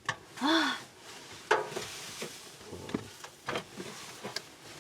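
A person's short wordless vocal sound near the start, followed by scattered light knocks and clicks from things being handled in a small enclosed space.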